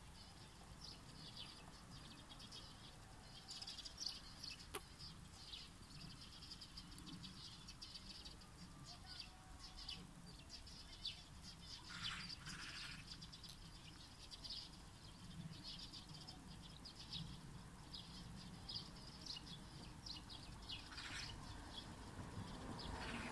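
Faint birds chirping, many short high calls throughout, with two longer, lower animal calls, one about halfway through and one near the end.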